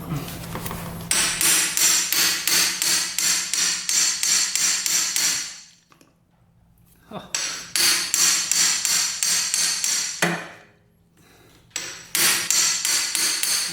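Rapid repeated hammer strikes on metal, about three a second, in three bursts with short pauses between them, knocking at a rusted, seized screw on the recoil starter housing.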